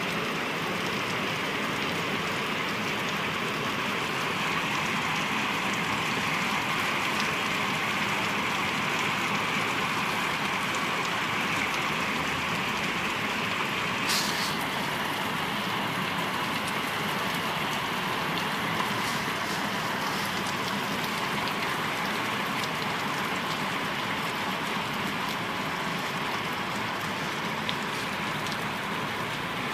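Steady rain falling on a building's rooftop, with one short click about halfway through.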